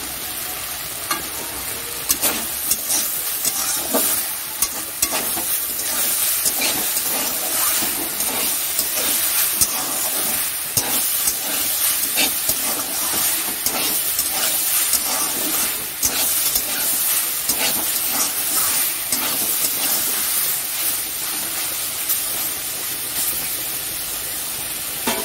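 Chopped water spinach sizzling in oil in a wok, with a steady hiss. From about two seconds in, a spatula stirs it, scraping and clicking against the pan again and again.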